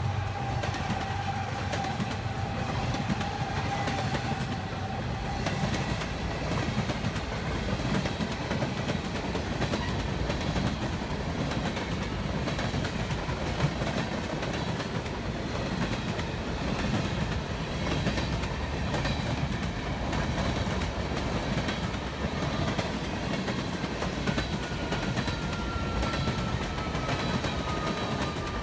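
Freight train of covered hoppers and tank cars rolling past close by, with a steady rumble of steel wheels on rail and clickety-clack over the rail joints. A thin high tone sounds over it in the first few seconds, and another slides slowly down in pitch near the end.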